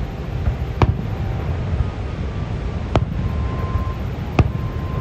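Fireworks going off: three sharp bangs, about a second in, at about three seconds and near the end, over a steady low roar of falling water and wind.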